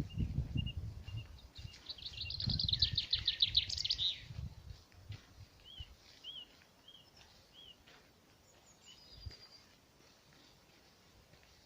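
Songbirds singing: a fast trill of rapid high notes a couple of seconds in, then four short, evenly spaced arched notes, over a low rumble that fades out by about five seconds.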